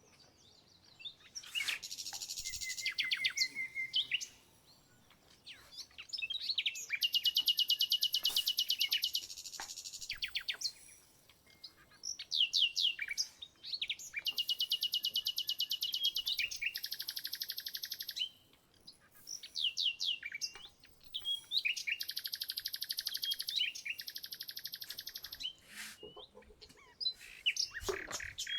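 A songbird singing in repeated phrases of rapid high trills, each a couple of seconds long, with short pauses and quick sweeping notes between them.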